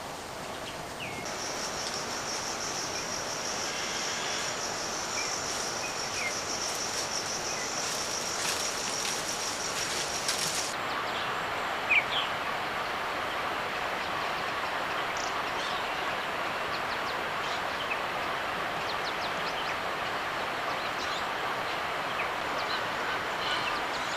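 Outdoor ambience: a steady rushing noise, with a high, even buzz that cuts off suddenly about ten seconds in, and a few short bird chirps.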